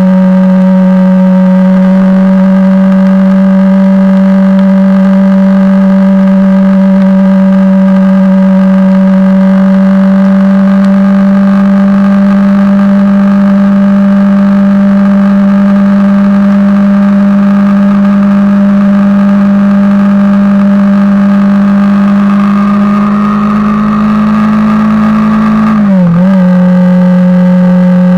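Honda CBR250R's single-cylinder four-stroke engine holding a steady cruising drone at constant revs, loud and close. Near the end the pitch rises slightly, then dips sharply and comes straight back, as with a quick throttle change.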